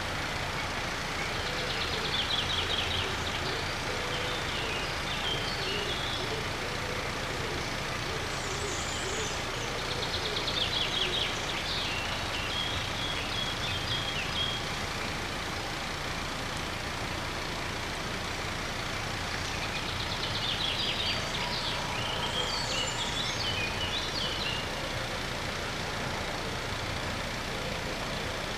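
Steady outdoor rumble of passing road traffic. Over it a songbird sings a short trill-and-flourish phrase three times, about ten seconds apart.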